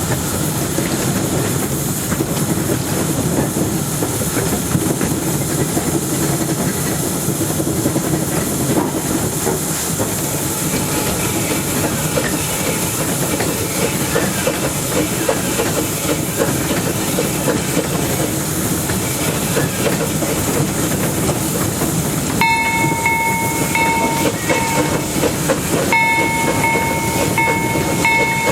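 Narrow-gauge steam locomotive under way, heard up close from its running board: a steady clatter of wheels on rail and running gear with steam hiss. From about 22 seconds in, a steady high-pitched tone comes and goes in several spells over it.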